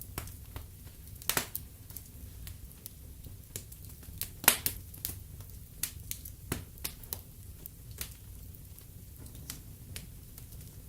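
Wood fire in a fireplace crackling, with irregular sharp pops over a steady low rumble of the flames; the loudest pop comes about four and a half seconds in.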